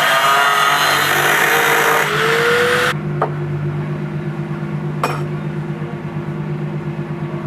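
Car engine running: loud and hissy with a rising whine for about three seconds, then suddenly settling into a steady idle hum with a slight regular pulse. Two sharp clicks come partway through.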